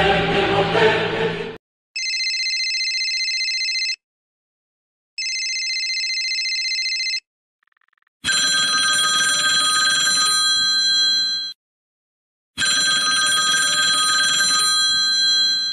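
Telephone ringing sound effects: a trilling ring twice, about two seconds each with a short pause between, then a different, louder ring twice, about three seconds each. It opens with the tail of a crashing clatter that cuts off after about a second and a half.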